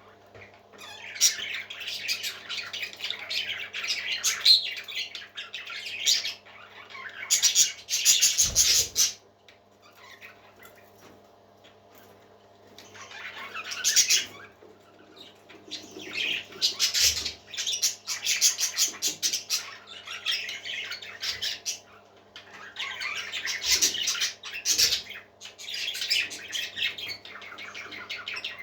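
Parrot chicks calling with raspy, buzzing calls in stretches of a few seconds, with pauses about ten seconds in and again around twenty seconds in.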